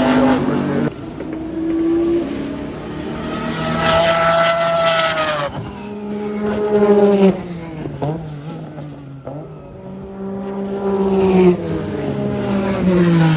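Historic IMSA GTP-era prototype race cars passing at speed one after another. Each engine note drops in pitch as the car goes by, with about five or six cars passing in turn.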